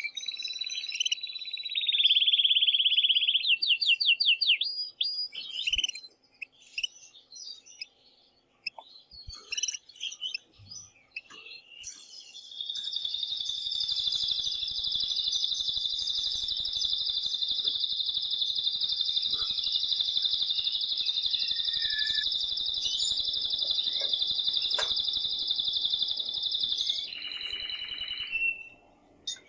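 Male domestic canary singing in an excited state. Fast rolled trills and rapid repeated notes come first, then scattered chirps, then one long steady high trill held for about fourteen seconds before a short closing phrase.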